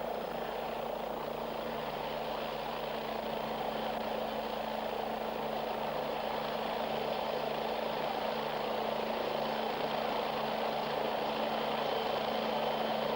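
MBB BO-105P (PAH-1) anti-tank helicopter in flight: a steady low hum from its twin turboshaft engines and rotor, slowly growing louder.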